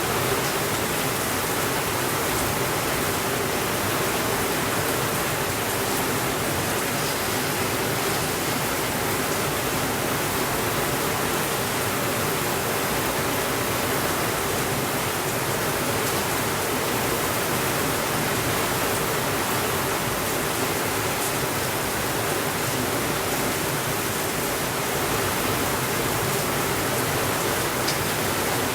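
Steady rainfall, an even hiss with no thunder. A few faint clicks sound over it.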